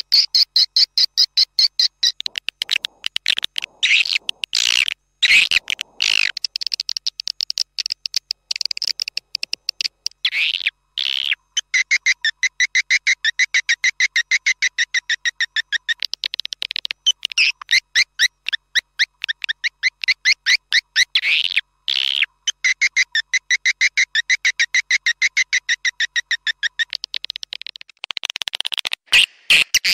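Swiftlet lure call track: recorded edible-nest swiftlet twittering played as rapid trains of short high chirps, many a second, in looping phrases with brief breaks.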